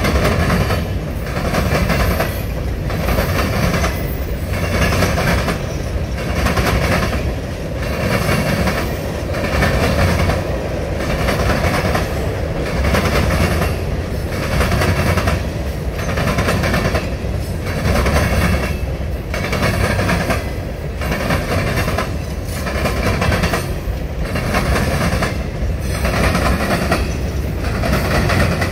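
Freight train of open hopper cars rolling past, its steel wheels banging over a rail diamond crossing in a steady, rhythmic clatter that repeats car after car.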